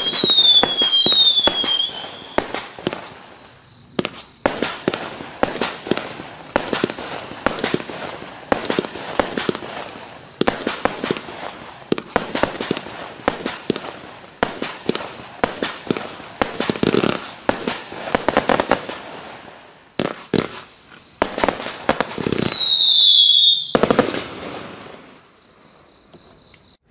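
A compact multi-shot fireworks cake (268 shots, 20 mm tubes) firing a rapid string of bangs and crackling shots. Shrill whistles falling in pitch sound over the first two seconds and again about 22 seconds in, and the firing thins out and dies away near the end.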